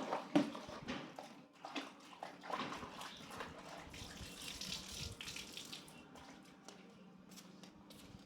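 Water splashing and running, with scattered knocks and clatter.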